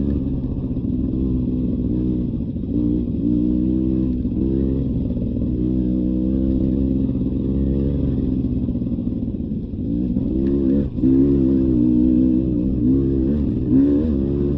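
Beta 300 RR two-stroke dirt bike engine revving up and down under throttle on a trail. About eleven seconds in it drops briefly, then comes back louder and higher.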